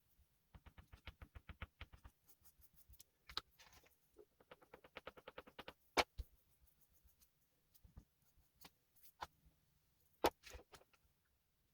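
Oil pastel rubbed on paper in quick short back-and-forth strokes, about eight to ten a second, in two runs. A few sharp clicks come between them, the loudest about halfway through and another near the end.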